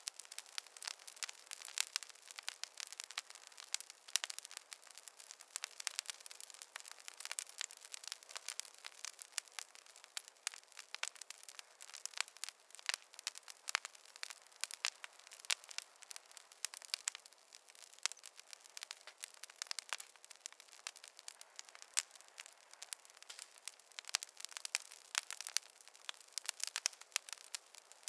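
Wood fire crackling in a fireplace: a continuous, irregular run of sharp pops and snaps, thin and bright, with no deep rumble beneath.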